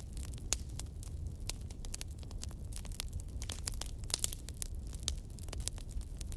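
Wood bonfire crackling: frequent, irregular sharp pops and snaps over a steady low rumble.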